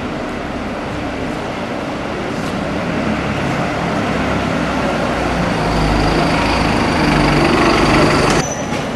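A large vehicle's engine running steadily and drawing nearer, the noise growing louder until it cuts off abruptly near the end.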